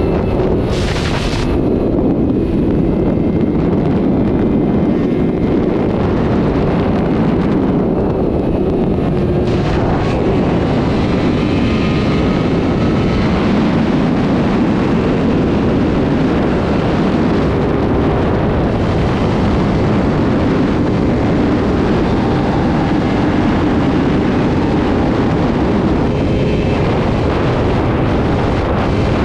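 Sport motorcycle engine running steadily at speed, mixed with heavy wind noise on the microphone.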